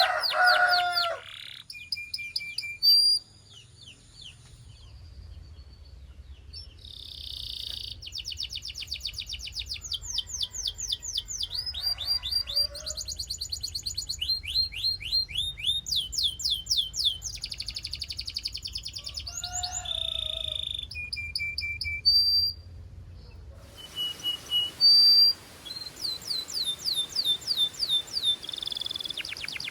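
Belgian canary song: fast trills of repeated chirping and whistled notes, sung in phrases of a second or two with short pauses between them.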